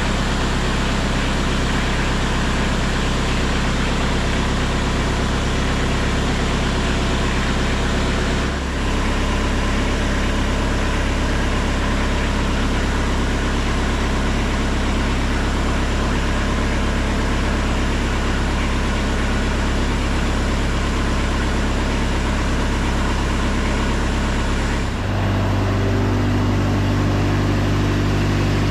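Small diesel tractor engine idling steadily while it warms up. The note dips briefly about eight seconds in, then shifts to a different, heavier pitch near the end.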